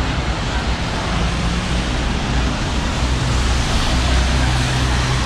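Steady city street noise, mostly road traffic, with a low rumble under an even hiss.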